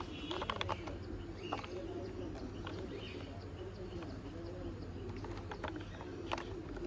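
Small plastic clicks and taps as a toy car's front wheel is fitted, with a pigeon or dove cooing steadily in the background.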